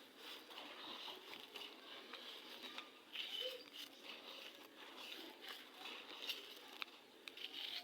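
Gritty red sand crumbling, a dense run of fine crackles and grainy clicks with a few louder crunches about three seconds in and near the end.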